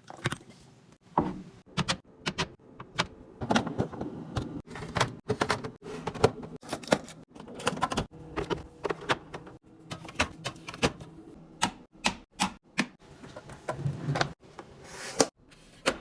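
Containers and groceries being handled and set down: an irregular run of sharp taps, clicks and knocks, with a brief rustle near the end.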